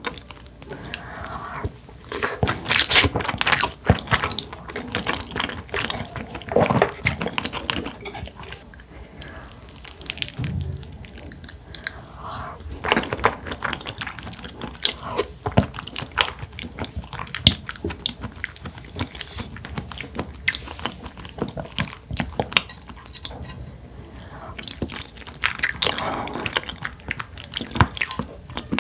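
A person chewing and biting food close to the microphone, with many short, irregular clicks and crunches.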